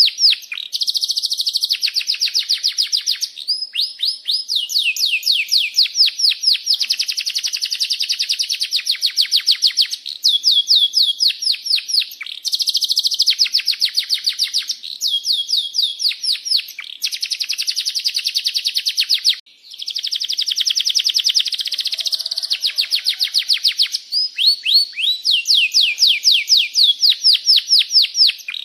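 Domestic canary singing a long, nearly unbroken song of rapid rolling trills and repeated high chirps, with a brief pause about two-thirds of the way through.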